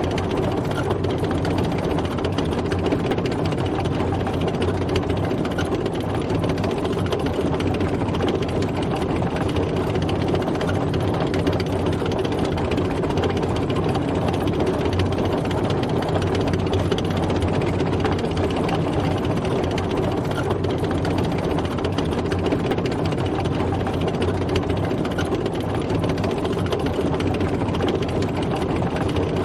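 Tank driving: its engine runs steadily under a dense mechanical rattle, without change.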